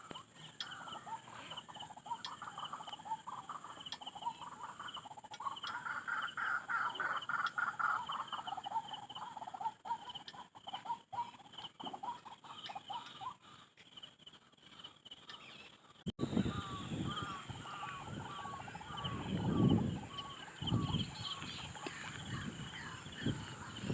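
Birds calling in varied, overlapping calls. About two-thirds of the way in, the sound cuts to a short chirp repeated at a steady pace, over low rumbling.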